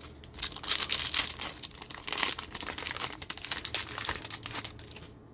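Foil trading-card pack wrapper crinkling and being torn open, a dense run of irregular crackles that starts about half a second in and eases off near the end.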